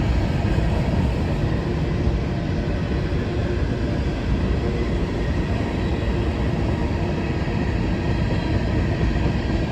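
Northbound freight train of covered hopper cars rolling past: a steady rumble of wheels on rail.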